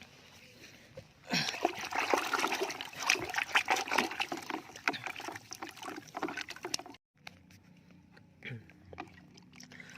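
Water splashing and sloshing as a toy animal is washed by hand, with many quick splashes; it starts about a second in and cuts off abruptly about two-thirds of the way through.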